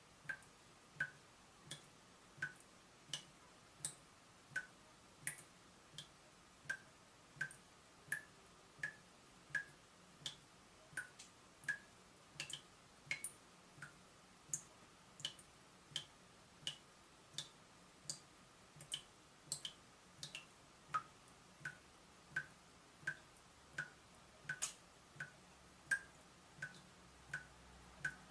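Water dripping steadily from a leaking tap, single drops falling at an even pace of a little more than one a second, each a short plink whose pitch varies from drop to drop.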